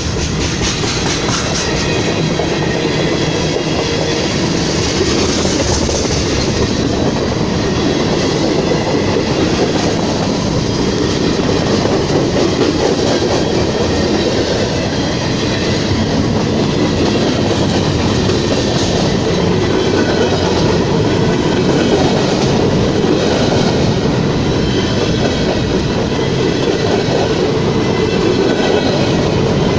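A train rolling past, its cars running over the rails with a steady clickety-clack that goes on throughout.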